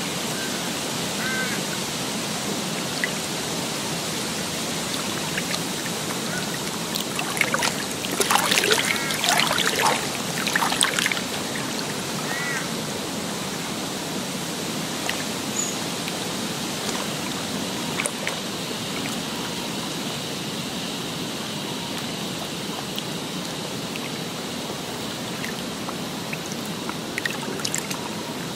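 Steady rushing water, with a few short bird calls. Splashing grows louder for a few seconds near the middle.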